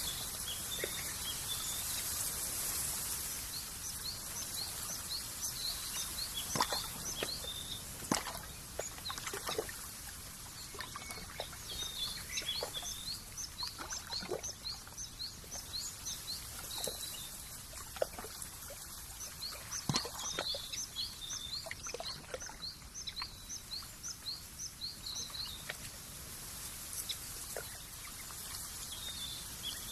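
Small birds chirping in many quick, high, repeated chirps, with several birds overlapping, over a steady high hiss. Scattered short clicks are heard through it.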